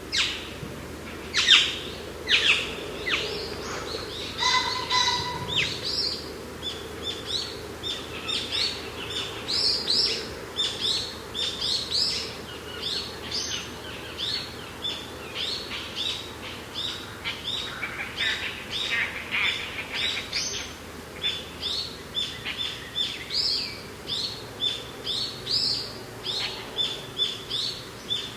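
Songbirds singing, a dense run of short, quick chirping notes repeated over and over, over a steady low background of mountain wind.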